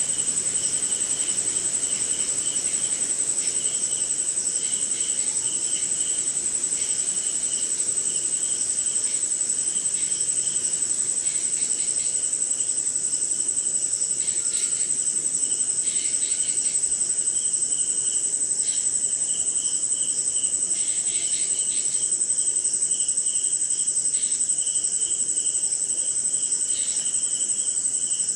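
Night chorus of crickets and other insects: one steady, unbroken high-pitched trill with a lower chirping that comes in short repeated pulses, and a few faint scattered ticks.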